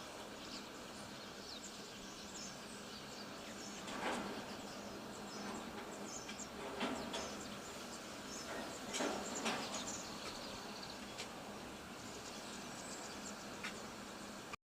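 Outdoor ambience: birds chirping on and off over a steady background hiss, with a few brief louder rustles about four, seven and nine seconds in. The sound cuts out briefly at the very end.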